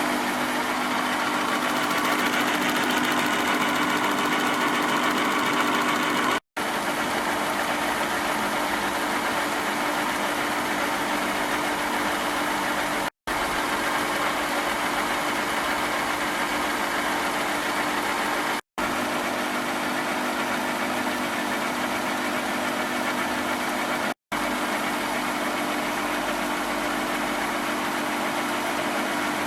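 Deckel FP 1 universal tool milling machine running: a steady mechanical hum with a few steady low tones under it. It drops out abruptly four times for a split second.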